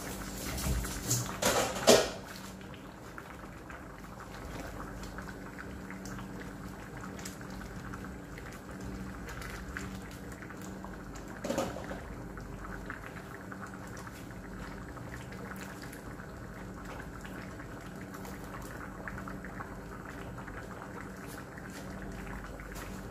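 Mung bean stew simmering in a wide pan on a gas stove, a steady bubbling. A few brief clatters come near the start, the loudest about two seconds in, and one more about halfway.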